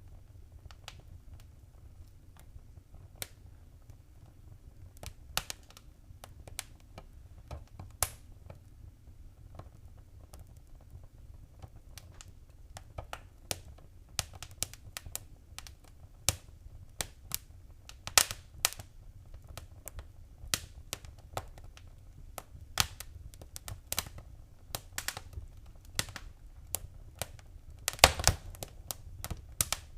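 Wood fire crackling in a fireplace: irregular sharp pops and snaps over a low rumble of the flames. The pops come more often in the second half, with a quick run of louder snaps near the end.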